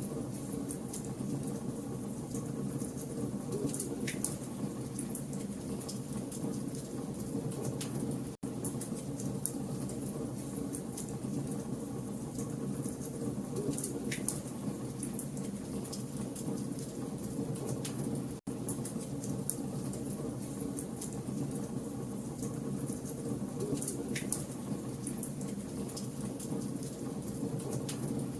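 Campfire logs burning: a steady low rumble of flame with constant small crackles and a louder pop or snap every ten seconds or so. The sound cuts out for an instant about every ten seconds, as at the seam of a looped recording.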